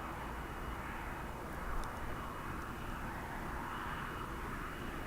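Steady rushing jet-aircraft noise with a faint thin whine, swelling and easing in slow waves.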